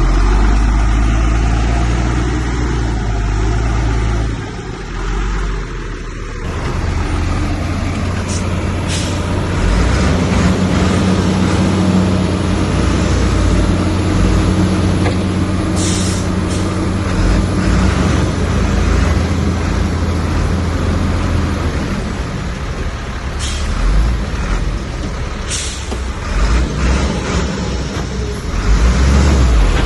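Heavy diesel earthmoving machinery running steadily, a low engine drone that changes abruptly about six seconds in, with a few short sharp hisses later on.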